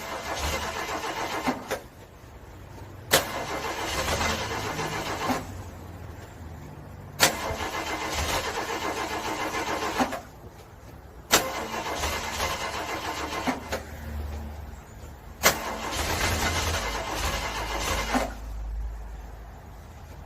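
Cold car engine cranking over and over on its starter, struggling to start in freezing weather. Five attempts, each opening with a sharp click and cranking rhythmically for two to three seconds before it stops.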